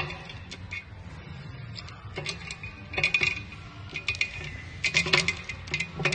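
Irregular clusters of light metallic clicks and clinks, some briefly ringing, as metal hand tools and parts are handled and set down.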